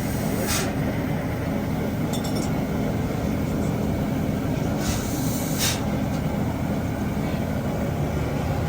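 Steam-hauled passenger train running on the rails, a steady low rumble. A brief metallic clink comes about two seconds in, and a short hiss a little before the sixth second.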